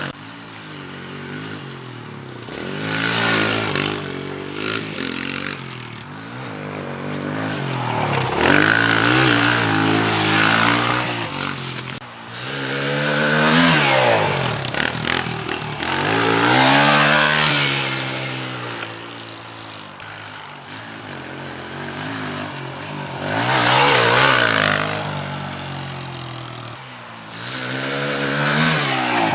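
Pit bike engine revving up and easing off again and again as it is ridden, its pitch climbing and falling repeatedly, with about five loud surges.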